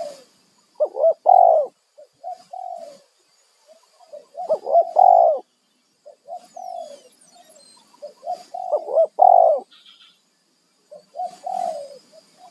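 Spotted doves cooing, several phrases of short, mellow coos that come back every two to three seconds.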